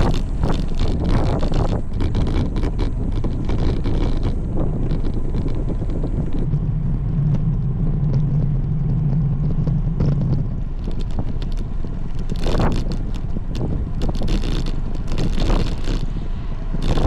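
Wind buffeting the microphone on a moving road bike, over steady road rumble, with gusty flapping bursts. A steady low hum sounds for about four seconds midway.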